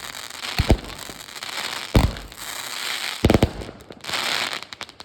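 Fireworks going off: sharp booming bangs, a quick cluster of them about three seconds in, over continuous crackling. Near the end comes a dense burst of crackle that fades out.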